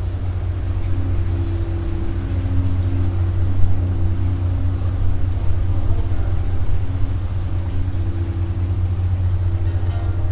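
Steady low rumble of a running vehicle, with a constant low hum and a few steady tones above it.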